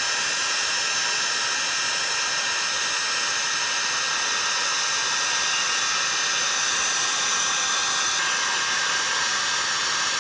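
Heat gun blowing steadily: a constant rush of air with a steady high-pitched whine, used to heat a chainsaw crankcase half for the crank bearing.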